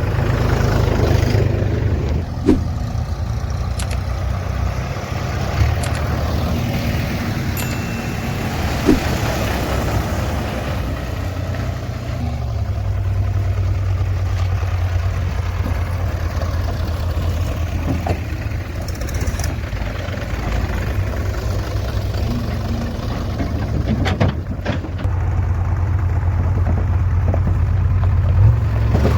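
Heavy diesel engine of the working machinery running steadily, with a few short sharp knocks over it.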